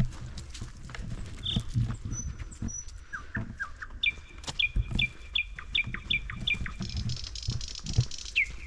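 Footsteps on the forest floor, a thump about every half second, while small birds call: three quick notes about three seconds in, then a run of about eight sharp repeated notes, and a high buzzy call near the end.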